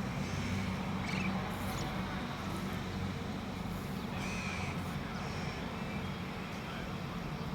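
A few short bird calls, about a second, a second and a half and four seconds in, over a steady low hum and background noise.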